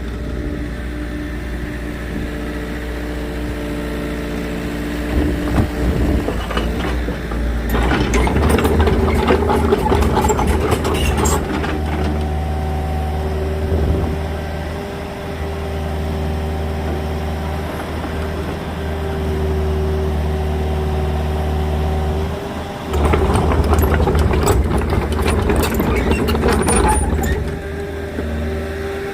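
Small agricultural excavator's engine running steadily, its pitch shifting a little as it works. Twice, for a few seconds each, a dense clattering and crackling noise rises over it.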